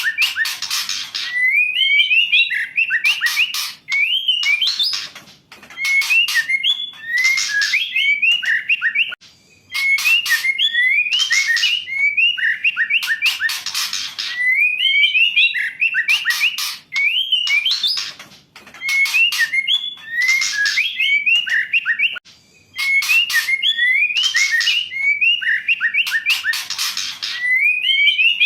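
Female white-rumped shama calling: a phrase of quick whistled notes followed by a harsh, rasping chatter, repeated every three to four seconds.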